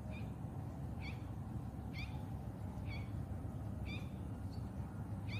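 A bird calling over and over, a short upward-sweeping note about once a second, over a steady low rumble.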